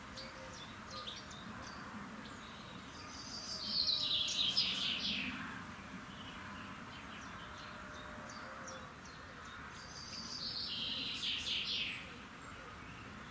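Birds singing: twice, a songbird sings a loud phrase of quick repeated notes that runs downward in pitch, first about four seconds in and again about ten seconds in. Shorter, fainter chirps from other birds fill the gaps between.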